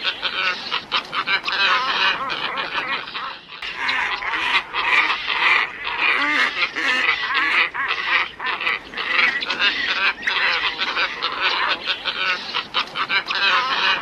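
A flock of glossy ibises calling continuously, many hoarse calls overlapping one another, with a brief break about three and a half seconds in.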